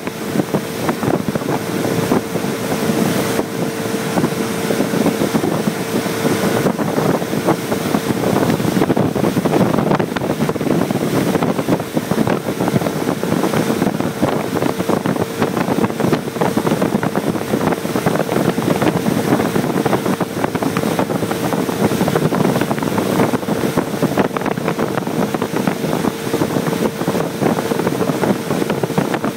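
Motorboat engine running steadily at speed with a constant hum, and heavy wind buffeting the microphone.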